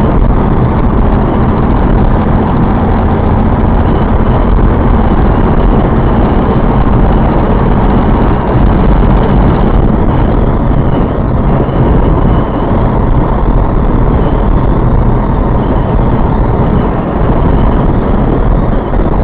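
Strong wind blowing, a loud, steady rushing noise heaviest in the low end, mixed with vehicle noise.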